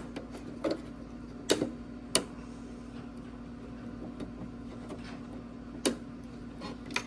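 A handful of sharp, irregular clicks and clacks of hand tools and hard plastic headlight parts being handled, over a steady low hum.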